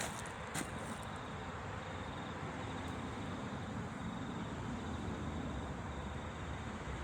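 Train rumbling steadily, a low, even noise with a single sharp click about half a second in.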